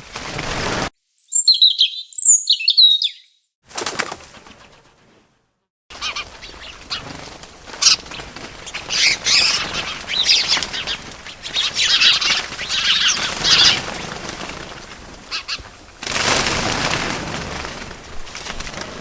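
Small birds chirping in short, sharp, high calls, with wing flapping and rustling. A few clear chirps come about a second in; after a brief silence a busier run of chirps and flutter follows, and the sound cuts in and out between pieces.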